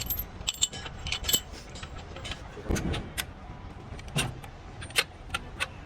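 Scattered light metallic clinks and taps of hand tools and metal parts being handled, with two duller knocks, one about halfway through and one a little later.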